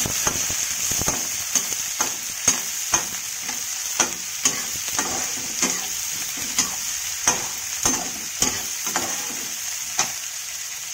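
Chopped onions and green chillies with cumin sizzling in hot oil in a metal kadai. A perforated metal spatula stirs them, scraping and clacking against the pan about twice a second.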